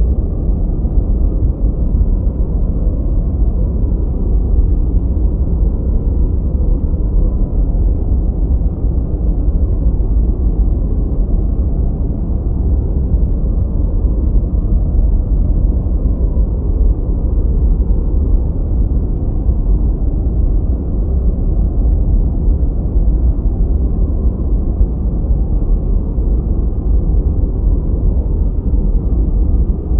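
Continuous noise track of the kind sold as white noise for studying, here deep and dark: an even hiss-free wash strongest in the lowest bass and fading out above about 2 kHz, with no change in level.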